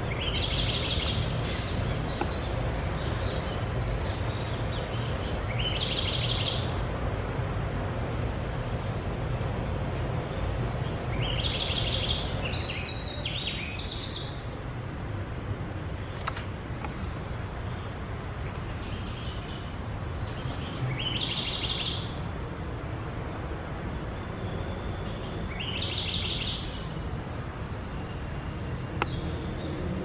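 Short, high bird calls repeating every four to five seconds over a steady low background rumble.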